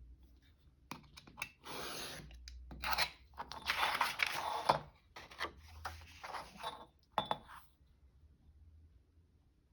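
Paper being handled and folded, rustling and crinkling in a string of uneven bursts for several seconds, loudest around the middle.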